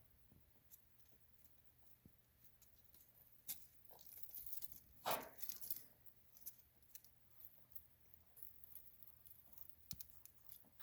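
Leopard gecko's shedding skin crackling and tearing as the gecko peels it off: faint scattered crackles, with a louder, longer tearing crackle about five seconds in.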